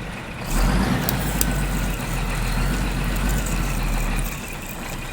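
A vehicle engine running steadily, swelling about half a second in, with a couple of light clicks soon after.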